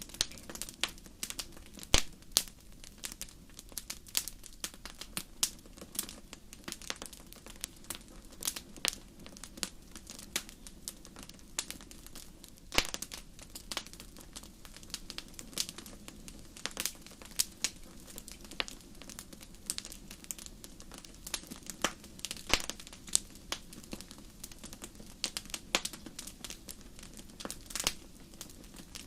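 Wood fire burning in a fireplace: steady crackling with irregular sharp pops, a few louder ones standing out, over a low, steady rumble of flame.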